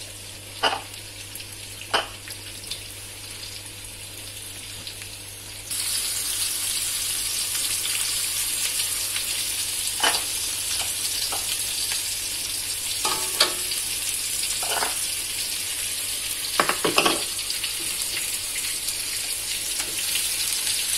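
Sliced shallots and garlic sizzling in hot oil in a wok. The sizzle jumps much louder about six seconds in and then holds steady, with a few sharp knocks and scrapes of a spatula against the pan.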